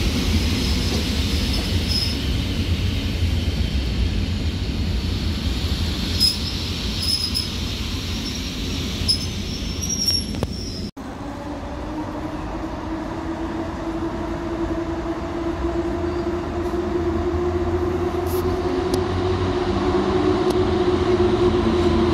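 EN57 electric multiple unit moving along the platform: a low rumble with a high wheel squeal now and then. After a cut about eleven seconds in, an EP07 electric locomotive pulls passenger coaches into the station, its steady hum growing louder as it approaches.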